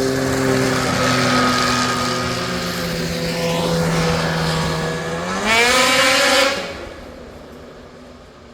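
A vehicle engine running steadily, its pitch sagging slightly, then revving up sharply about five seconds in and cutting back and fading away a second or so later.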